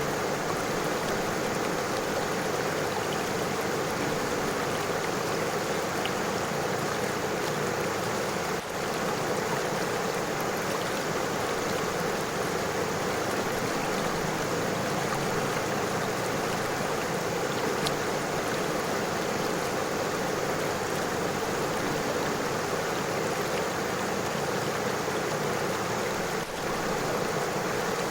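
River water flowing steadily over stones, a continuous rush with two brief dips in level, about a third of the way in and near the end.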